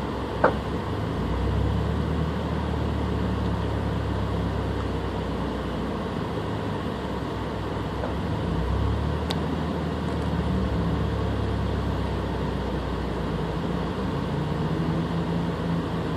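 Subaru BRZ's FA20 flat-four engine idling unevenly, the idle sagging and recovering a couple of times; the owner reports it misfires every time the rpm drops, with no check engine light. A sharp click sounds about half a second in.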